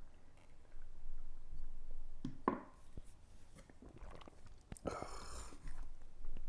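A person eating and drinking at a table: chewing, with a few small sharp clicks of tableware and a short breathy sound about five seconds in.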